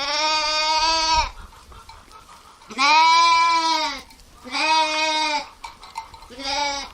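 Bleating of a sheep or goat-type farm animal: four long, steady-pitched bleats about a second each, with short pauses between them.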